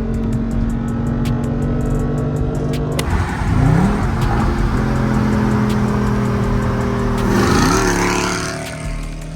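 A car engine revving twice, sweeping up in pitch, about a third of the way in and again near the end, the second with a loud rush of exhaust noise, over background music with a steady beat.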